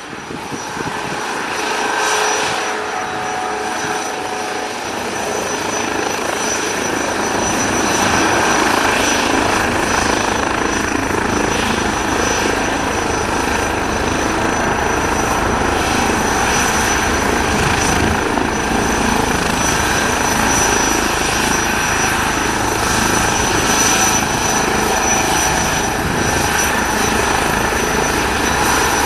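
Airbus H160 helicopter's twin turboshaft engines and rotors running, a steady high turbine whine over continuous rotor noise. The sound grows louder over the first several seconds, then holds steady.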